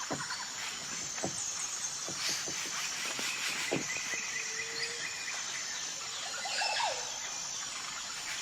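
Woodpecker pecking at wood in a few separate knocks, among other birds' short calls and a steady high insect trill.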